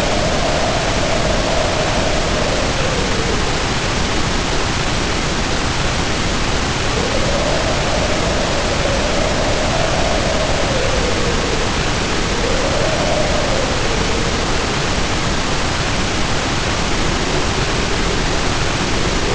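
A steady hiss of heavy rain under howling wind. The howl rises and falls in slow swells every few seconds.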